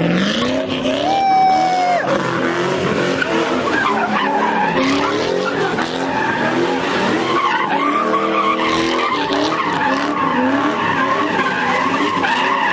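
A car doing donuts or a burnout: the engine revs hard, its pitch rising and falling over and over, while the tires skid and squeal on the pavement.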